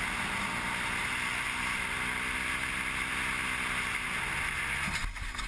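Steady wind and road noise of a moving vehicle, with an engine hum underneath whose pitch gently rises and falls; the sound changes abruptly about five seconds in.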